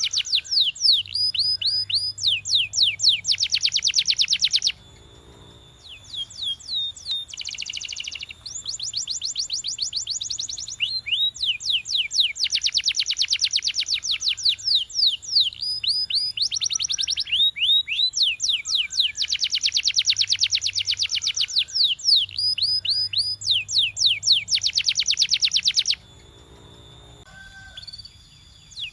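Canary singing: fast, high trills and rapid rolling phrases in repeated bursts, with short quieter gaps about five seconds in and near the end.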